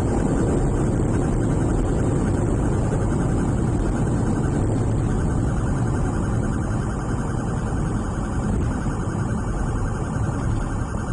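Police car driving fast in a pursuit: steady engine and road noise.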